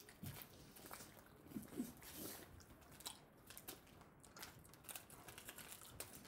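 Faint chewing of small, very hard pink candy balls, with scattered crunches and clicks in the mouth and a brief low murmur about one and a half seconds in.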